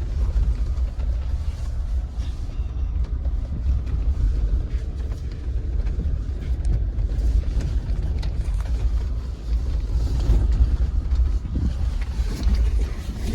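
Jeep driving over a rough, rocky dirt trail, heard from inside: a steady low rumble of engine and tyres with scattered knocks and rattles from the bumps.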